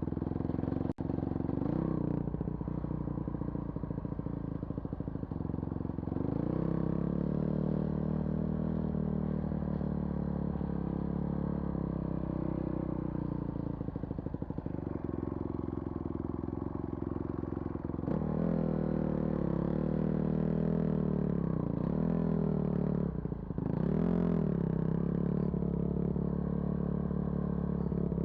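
Vehicle engine running under way, its pitch shifting with the throttle, dropping briefly and picking up again about 23 seconds in.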